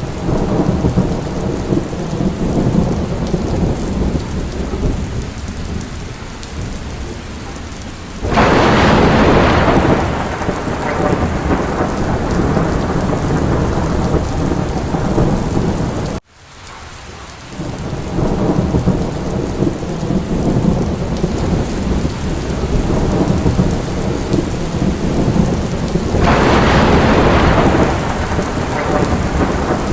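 Steady rain in a thunderstorm with a continuous low rumble of thunder. Two loud thunderclaps hit about 8 and 26 seconds in, each rolling off over a few seconds, and the sound cuts out abruptly for a moment about halfway through before building back.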